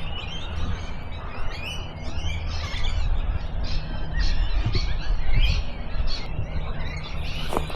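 Many wild birds chirping and calling at once, with short high chirps repeating several times a second over a steady low rumble; a couple of sharp clicks near the end.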